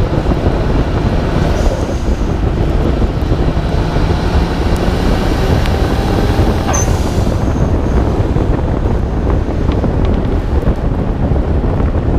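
Heavy wind buffeting on a hood-mounted camera's microphone as a 1991 Nissan Skyline R32 GT-R drives on a wet mountain road, with the RB26DETT twin-turbo straight-six heard faintly beneath. There is a brief sharp sound about seven seconds in.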